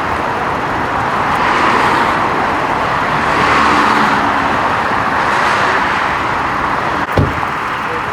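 Road traffic passing: a steady rush of tyre and engine noise that swells and fades as vehicles go by, with a short thump near the end.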